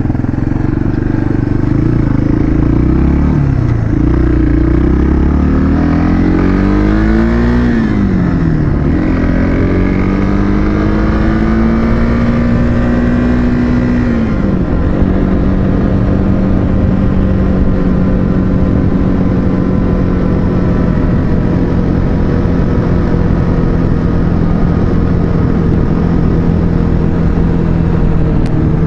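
Motorcycle engine pulling up through the gears: the revs climb and fall back at three shifts in the first fifteen seconds, then hold steady at a cruising speed.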